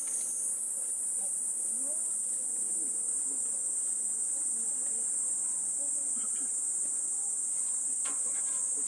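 Steady, high-pitched chorus of insects such as crickets chirring without a break.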